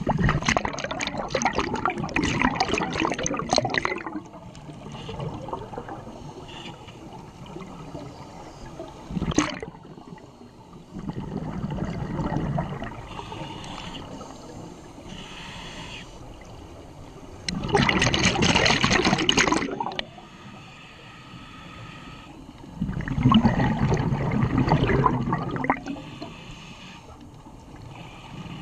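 Scuba diver's exhaled bubbles rushing from the regulator, heard underwater. The bubbling comes in bursts about every five to six seconds, each lasting two to three seconds, with quieter stretches between breaths.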